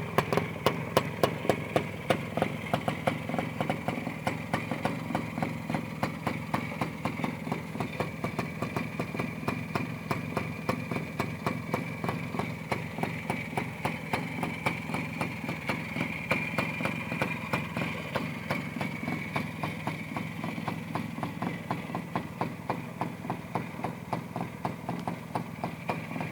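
1958 Minsk M1M motorcycle's small two-stroke single-cylinder engine idling steadily, with an even, rapid exhaust beat.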